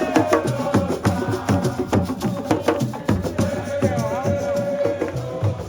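Percussion music: rapid, regular drum strikes with a held note running over them. The held note wavers about four seconds in and drops out shortly before the end.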